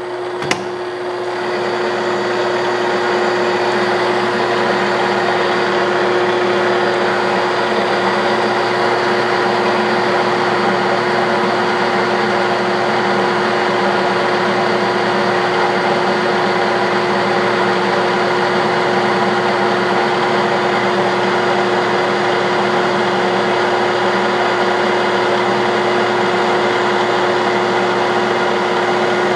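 1967/68 Clausing Colchester 1340 engine lathe running steadily through a turning pass of about forty thousandths, with a steady hum. A single click just after the start, and the sound builds over the first couple of seconds before holding even.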